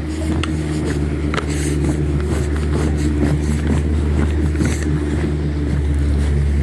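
A steady engine hum over a low rumble, with scattered light clicks.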